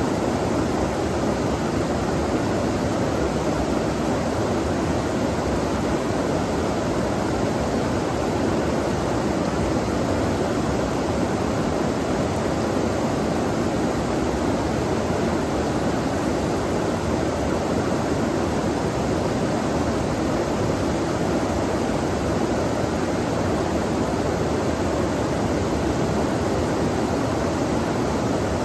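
Flowing stream water rushing steadily in an even, unbroken wash of sound.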